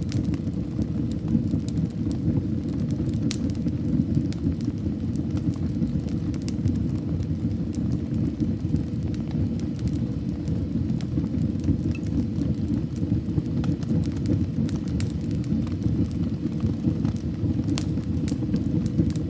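Wood fire burning in a fireplace: a steady low rumble of the flames with scattered sharp crackles and pops, a few of them louder.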